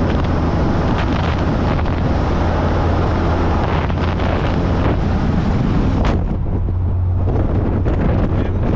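Classic car driving at speed: a steady low engine drone with road noise and wind buffeting the microphone. The high wind hiss eases about six seconds in.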